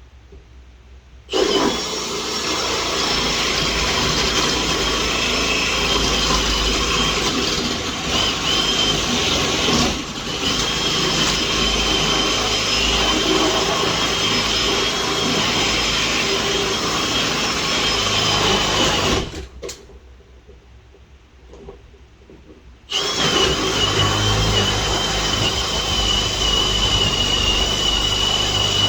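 Power drill spinning a Milwaukee 49-56-0320 adjustable hole cutter through ceiling drywall, a steady high motor whine. It runs for a long stretch, stops for a few seconds, then starts again near the end.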